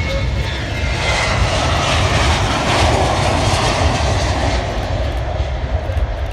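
Airplane engines at take-off power, a loud rushing noise over a deep rumble that swells to a peak about three seconds in, then eases as the plane moves away.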